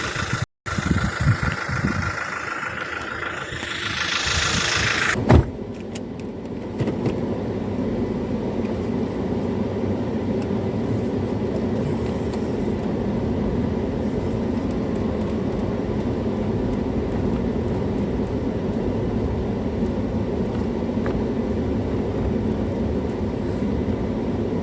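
Steady road traffic noise. It cuts out for a moment near the start, and there is a sharp click about five seconds in, after which it settles into a lower, even rumble.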